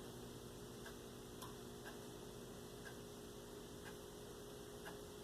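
Quiet room tone: faint, slightly irregular ticks, roughly one or two a second, over a steady low hum.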